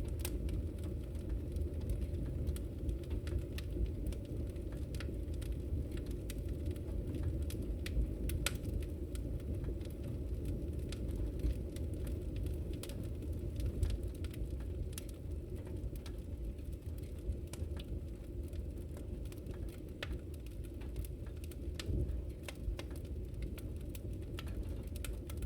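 Wood fire in a fireplace crackling: frequent small, sharp pops at irregular intervals over a steady low rumble.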